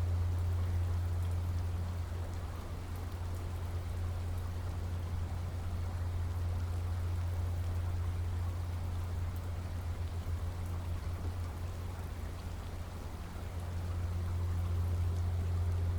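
Steady rain falling, an even hiss of drops over a deep, constant low rumble, easing slightly twice.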